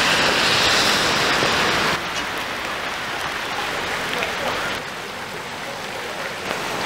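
Rushing floodwater, then after a sudden cut about two seconds in, steady heavy rain falling on flooded ground, dropping a little quieter after another cut near the five-second mark.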